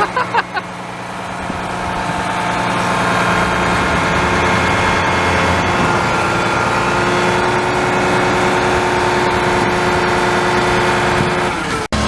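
Garbage truck's engine running, building up over the first few seconds and then holding steady with a sustained whine. The sound drops out abruptly for an instant near the end.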